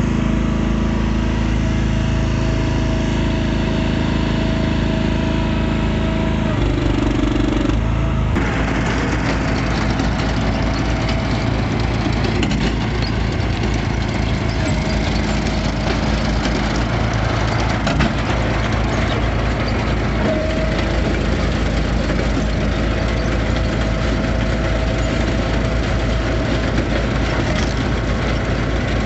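Engine of an Easton Made hydraulic log splitter running steadily on auto cycle; about six to seven seconds in its pitch drops as it comes under load, and from about eight seconds on the sound is rougher and noisier as the splitting goes on.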